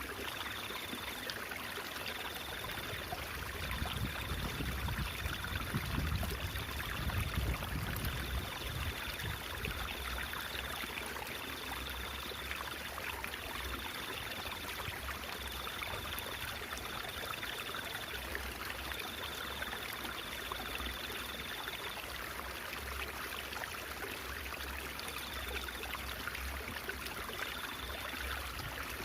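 Water trickling and babbling over stones in a stream, a steady rushing splash. A low rumble swells under it between about four and nine seconds in.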